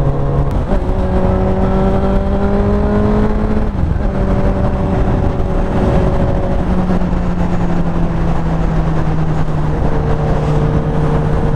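Honda CBR1000RR's inline-four engine pulling steadily at highway speed over heavy wind rush on the microphone. About four seconds in, the engine note dips briefly and then settles slightly lower, as in a throttle roll-off or gear change.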